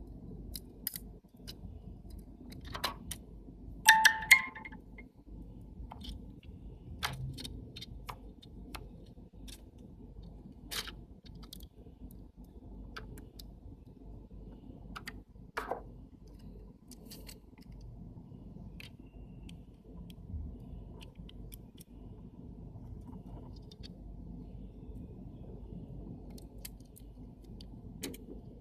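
Small metal parts of a disassembled camera lens and hand tools clicking and clinking as they are handled, with a loud ringing clink about four seconds in and a smaller one a little past the middle.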